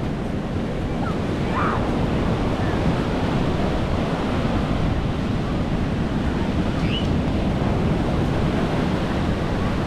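Sea waves washing onto the beach in a steady rush, with wind buffeting the microphone.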